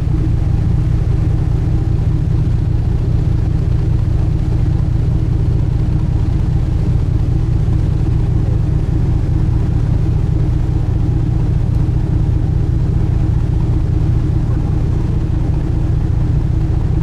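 Sightseeing cruise boat's engines running steadily underway, a loud even drone with a low rumble that holds unchanged throughout.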